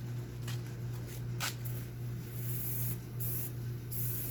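Aerosol can of foaming tire cleaner spraying in three hissing bursts, the last one held longest, over a steady low hum.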